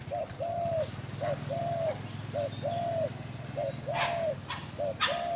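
Spotted dove cooing over and over in a steady rhythm, each phrase a short note followed by a longer arched one, about five phrases. A couple of sharp high clicks cut in about four and five seconds in.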